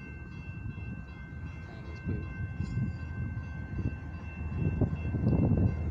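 Union Pacific diesel locomotive rumbling at low speed at a road crossing, with road vehicle noise swelling over it in the last couple of seconds.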